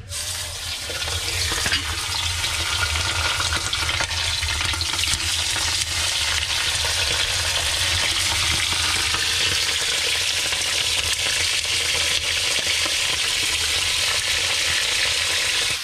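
Chunks of meat frying in hot oil in a kazan over a high wood fire: a loud, steady sizzle, with a low steady hum underneath. The sizzle marks the first stage of plov, with the meat seared hard so its liquid boils off.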